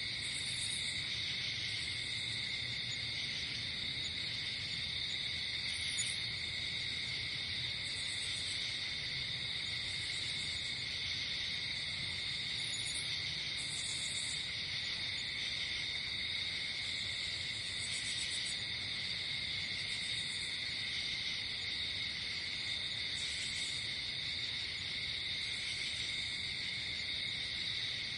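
Night insects, mainly crickets, trilling steadily in a chorus, with short higher chirps from other insects coming and going every second or two.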